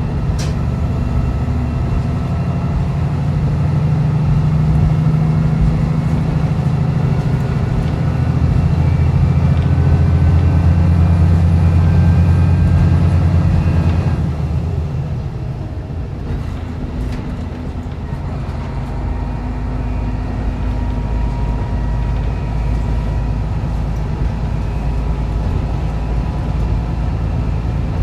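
Diesel railcar running on the non-electrified line, heard from inside the car. The engine's low drone swells under power, then falls away sharply about fourteen seconds in, leaving steadier wheel-and-rail running noise.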